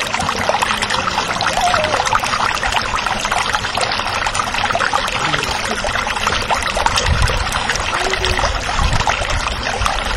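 Water splashing and sloshing without a break as hands stir and grab a plastic toy in a small plastic bucket of water.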